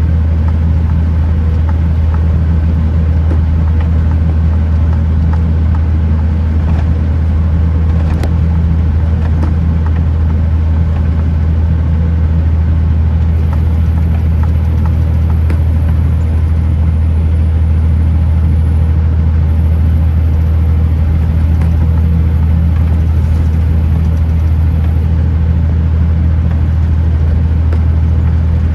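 Kenworth T909 truck's diesel engine running at a steady pace on the road, a deep, even drone with no change in pitch.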